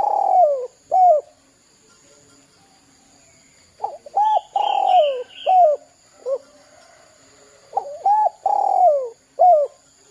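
Spotted dove (derkuku) cooing: three phrases a few seconds apart, each a couple of short coos, one long coo that falls in pitch, then a short closing coo. A faint steady insect hum runs underneath.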